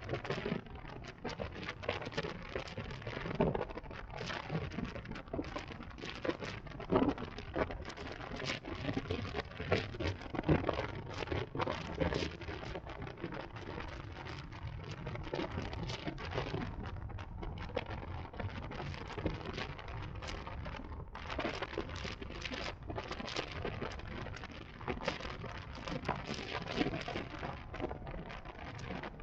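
Wind buffeting the camera microphone on a moving electric motorcycle, over road noise: a dense, irregular crackle above a steady low rumble, with little or no motor sound.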